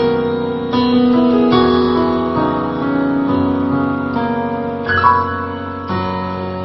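Piano or keyboard playing sustained chords, changing chord about every second, in a band's instrumental interlude.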